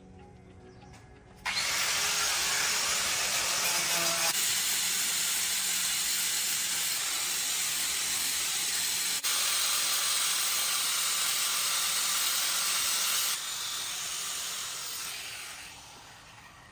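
Loud steady hiss of pressurised air or gas escaping, starting about a second and a half in, dropping a little in level near the end and then fading out.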